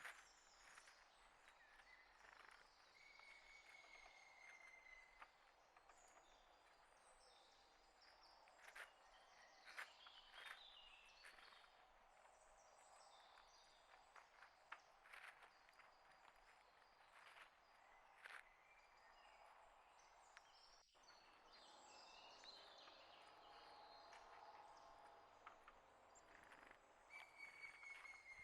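Faint wild songbirds chirping and calling, with scattered short clicks. A thin whistled note is held for about two seconds early on, and another comes near the end.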